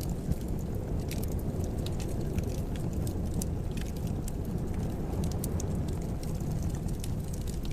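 Wood fire burning in a fireplace: a steady low rumble with irregular, scattered sharp crackles and pops.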